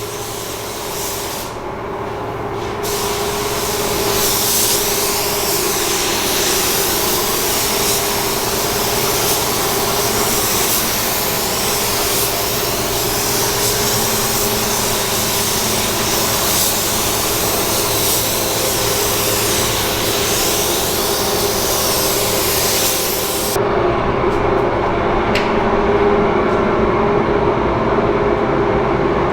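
Compressed-air hiss from a pneumatic body-shop tool, over the steady hum of a running air compressor. The hiss cuts off abruptly about 23 seconds in, leaving the compressor's hum.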